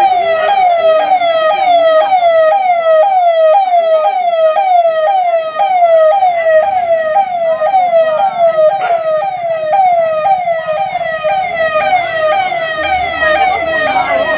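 Ambulance siren in a fast yelp pattern: a high wail that falls in pitch about three times a second, steady and unbroken.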